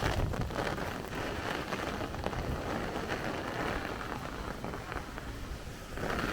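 Heavy rain pouring in a steady, dense hiss that eases slightly after about five seconds and swells again near the end.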